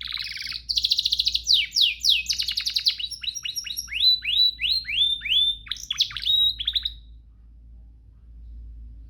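Domestic canary singing a long, varied song: fast buzzy trills and rapid repeated notes, then a run of quick down-slurred whistles. The song stops about seven seconds in, leaving only a faint low hum.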